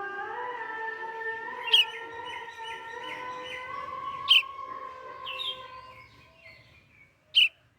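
Bird chirping repeatedly, with three sharp, loud chirps standing out, over a steady held pitched tone that steps up in pitch about half a second in and fades out near the end.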